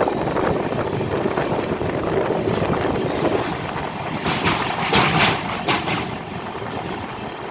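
Train running over a railway bridge: a steady rumble, with a few louder clatters about four and a half to six seconds in.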